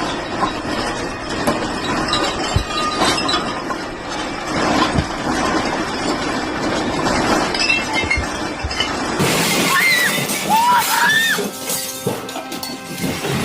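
Glass and loose objects clattering and clinking continuously, typical of things shaking during an earthquake, over background music. About nine seconds in the sound changes abruptly, and a few short high sliding squeals follow.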